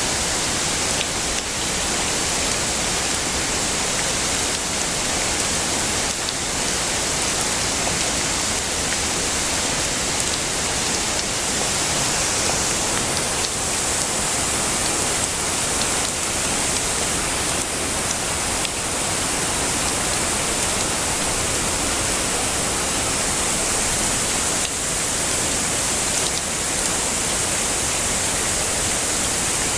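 Heavy rain falling steadily: a dense, even hiss, strongest in the treble.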